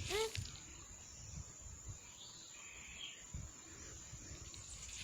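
Quiet outdoor ambience with faint, scattered low rumbles and a short call that rises then falls right at the start.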